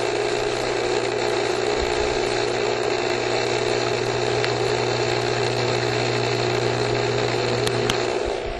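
Backyard swimming pool pump running, a steady motor hum with water rushing through it. It stops abruptly near the end.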